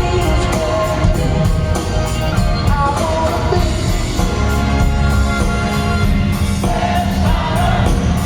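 Live rock concert music: a full band with a heavy bass, and a voice singing over it.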